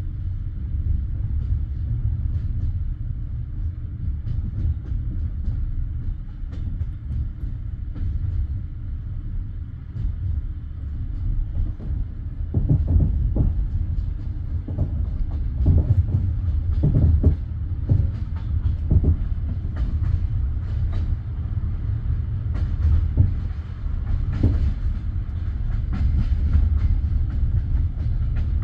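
Passenger train carriage rolling along the track: a steady low rumble, with irregular wheel clacks over rail joints that start about twelve seconds in.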